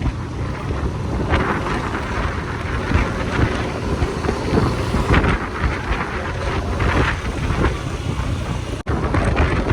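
Wind buffeting the microphone over a motorcycle's engine and road noise while riding, in uneven gusts. The sound cuts out for an instant near the end.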